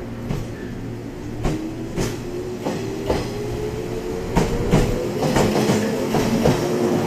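JR 115-series electric train pulling away from a station. Its traction motors whine, rising in pitch and then levelling off, while the wheels click over rail joints and points, the clicks coming faster and louder as it gathers speed.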